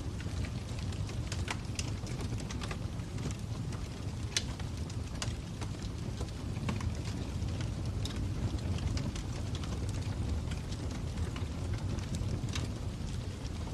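Fire crackling: irregular sharp snaps and pops, several a second and uneven, over a steady low rumble.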